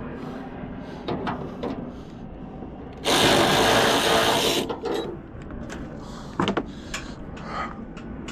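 A hand-held power tool, such as a drill or impact driver, runs in one burst of about a second and a half. Scattered light clicks and knocks of tools on metal come before and after it.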